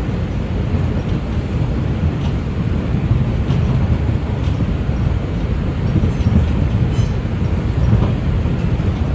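R142 subway train running along the track: a steady low rumble of wheels and motors, with a few faint clicks scattered through it.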